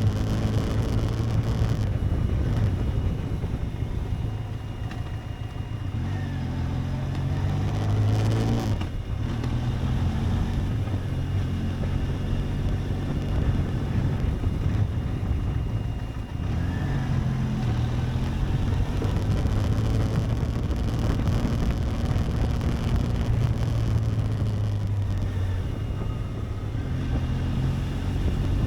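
Benelli TRK 502X's parallel-twin engine running as the motorcycle is ridden, its pitch rising to a peak about eight seconds in, dropping off briefly just after and again about sixteen seconds in, then picking up again.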